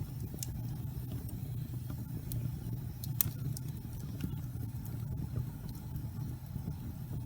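Wood fire burning in a fireplace: a steady low rumble of flame with scattered sharp crackles and pops, the loudest pop a little over three seconds in.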